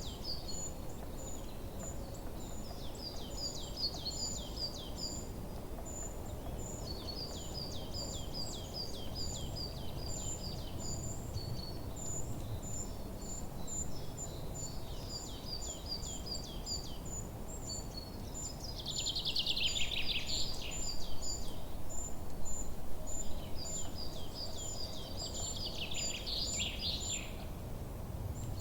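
Forest birds singing: repeated runs of short, quick falling notes with a steady string of high chips over them, and a louder, denser burst of song about two thirds in and again near the end, over a low steady background noise.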